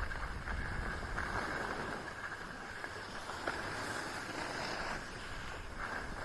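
Wind rushing over the microphone while skiing downhill, over a steady hiss of skis sliding on snow.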